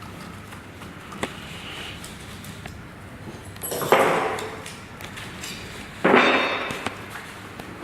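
Two loud metal clatters from the parts and tools of a deep-well submersible pump being dismantled, about four and six seconds in, each dying away within a second, among lighter taps and clicks.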